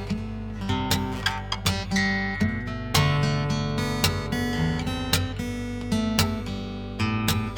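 Acoustic guitar played fingerstyle: plucked melody notes over a ringing bass line.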